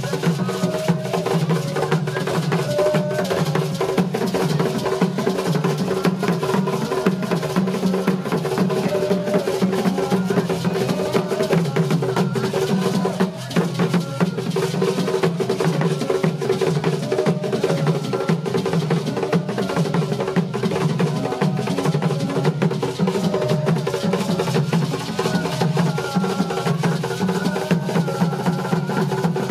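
Drum and percussion music, many strokes packed closely together without a break, with a brief dip about thirteen seconds in.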